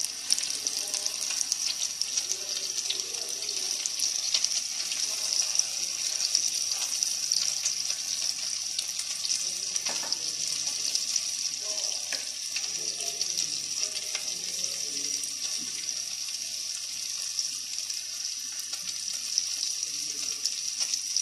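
Egg-dipped bread slices frying in shallow oil in a non-stick pan: a steady sizzle with scattered small crackles and pops.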